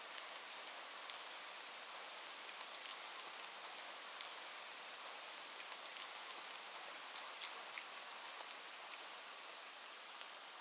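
Steady rain falling, a soft hiss with many small drops ticking sharply on a hard surface.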